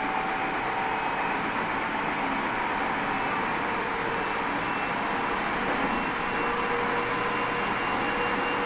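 Running noise inside a Tobu 30000 series electric train's motor car travelling at speed: a steady rumble of wheels on rail, with faint steady whines laid over it.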